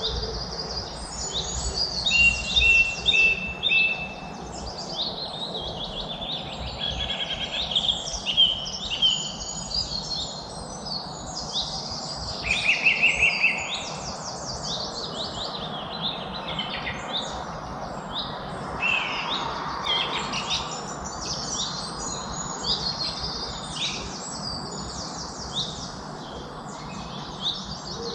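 Many birds singing and chirping at once, a dense overlapping chorus of quick trills and tweets over a steady background hiss.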